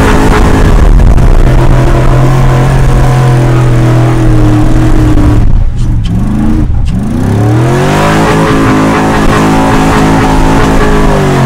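A vehicle engine revving hard. It holds at high revs, drops off about halfway through with a short blip, then climbs again and falls away near the end.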